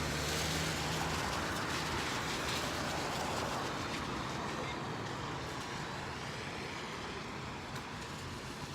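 Road traffic noise: a vehicle going by on the street, its sound slowly fading away.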